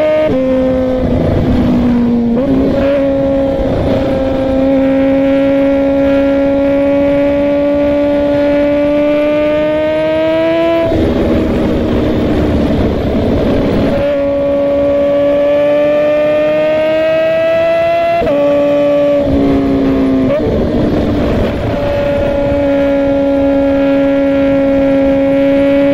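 Suzuki GSX-R1000's inline-four engine pulling steadily on the open road, its note rising slowly as the bike gathers speed. About eleven seconds in, and again near twenty seconds, the engine tone gives way for a few seconds to a rush of road and wind noise and comes back at a lower pitch.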